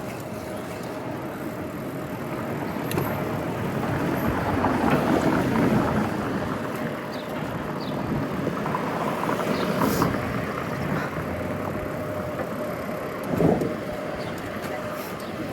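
City road traffic, cars going by on the street, heard from a moving bicycle. A longer swell about five seconds in and a short, sharp, loud pass near the end.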